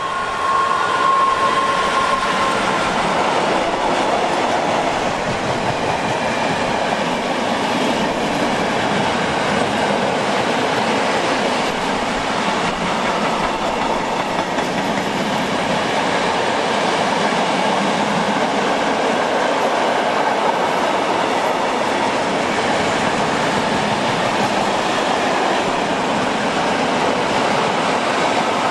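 Freight train passing at close range: a Traxx 3 electric locomotive goes by, then a long string of loaded cement hopper wagons rolls past with steady wheel-on-rail noise. A brief high tone sounds in the first couple of seconds as the locomotive passes.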